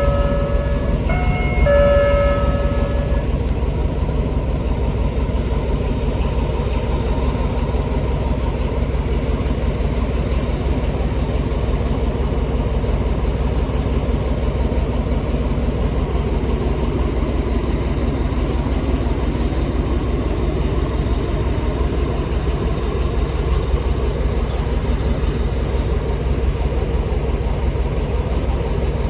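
Two short blasts of a locomotive's chord air horn, the second about a second and a half after the first, over the steady deep drone of an Alstom diesel-electric locomotive's Pielstick engine, which runs on evenly after the horn stops.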